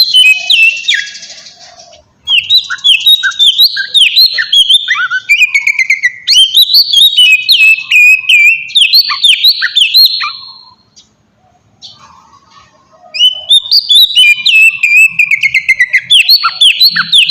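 Oriental magpie-robin (kacer) singing a fast string of loud whistled notes that slide up and down, in three long phrases broken by pauses of a second or two. It is a challenging song used as a lure to provoke other kacer into answering.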